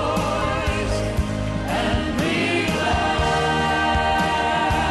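Gospel worship music: several voices singing long held notes over a live band, with drum hits.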